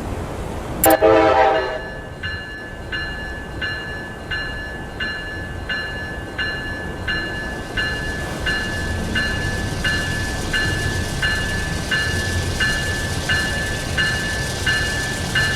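Amtrak train passing: a short horn blast about a second in, then a bell ringing steadily, about three strokes every two seconds, over the low rumble of the train, which grows louder in the second half.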